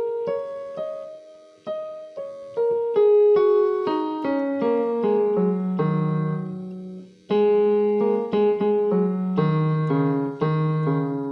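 Background piano music: a slow melody of single struck notes, with lower notes joining partway through and a brief pause about seven seconds in.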